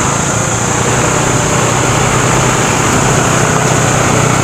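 Motorcycle riding along a road: a steady engine hum under an even rush of road noise.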